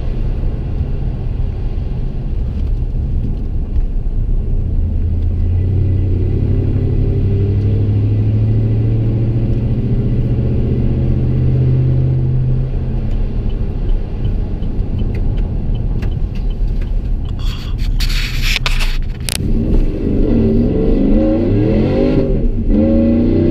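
Exhaust drone of a 5.3L V8 through a Gibson M.W.A muffler and long-tube headers, heard from inside the pickup's cab: a steady low drone while cruising that swells for a few seconds. After a brief burst of noise just past the middle, the truck accelerates, the exhaust pitch rising, breaking for an upshift and rising again near the end.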